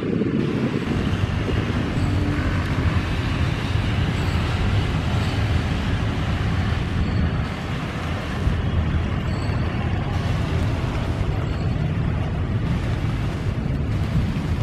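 Strong wind buffeting the microphone in a rainstorm, a steady low rumble with a hiss of rain over it.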